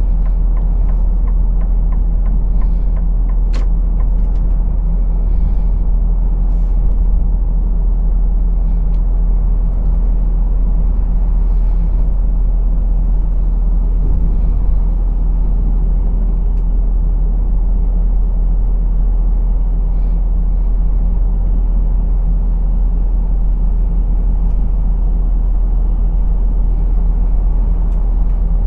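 Truck's diesel engine running with a steady low drone, heard from inside the cab. A few short hisses and a sharp click come in the first few seconds.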